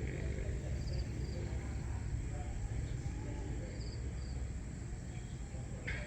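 Outdoor dawn ambience: a steady low rumble with short high chirps that come in pairs about every three seconds, over a faint steady high hiss.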